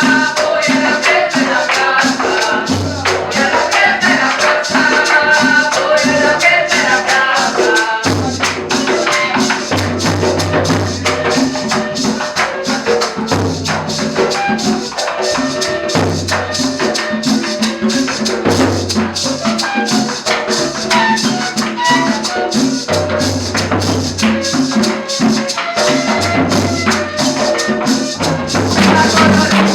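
Live cumbia band playing, with a rattling percussion line keeping a steady fast beat over separate low bass notes.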